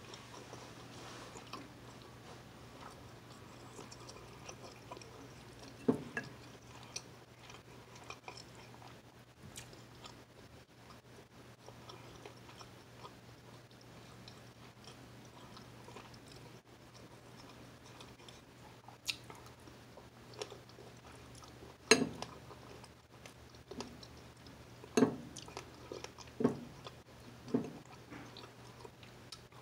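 Close-up chewing and mouth sounds of someone eating fresh strawberries and blackberries, over a faint steady low hum. A few sharp short knocks come about six seconds in and then several times in the second half, the loudest a little past two-thirds of the way through.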